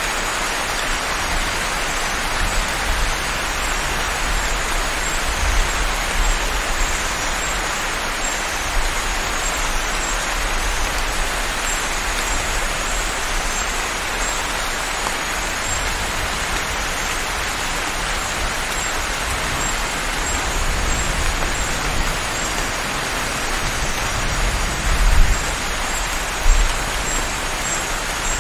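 Steady heavy rain, an even hiss of falling water, with a low rumble underneath that swells in a couple of louder pulses near the end.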